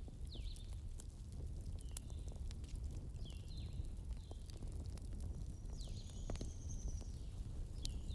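Wood bonfire burning with a steady low rumble and scattered sharp crackles and pops. A bird calls repeatedly throughout in short, hooked chirps.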